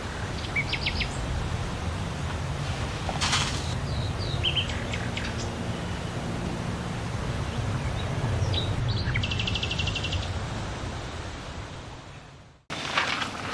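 Outdoor ambience: small birds chirping now and then over a steady low rumble, with a fast bird trill about nine seconds in. The sound fades out near the end and another stretch of outdoor sound cuts in.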